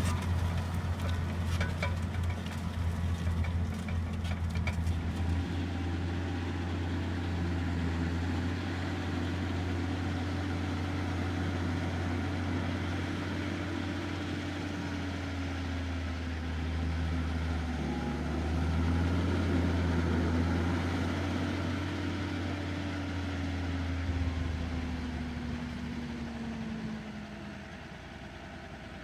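John Deere 6140R tractor's diesel engine running steadily while ploughing. Near the end its pitch drops slightly and the sound fades down.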